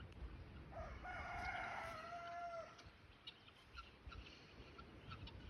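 A rooster crowing once, starting about a second in and lasting about two seconds.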